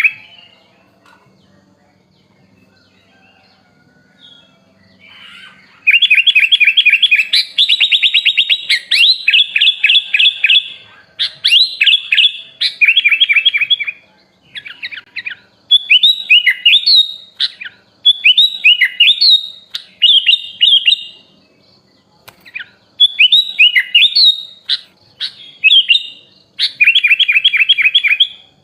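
Sooty-headed bulbul (kutilang) singing. A few quiet seconds give way to loud, fast rattling trills, then short whistled phrases in bursts with brief pauses.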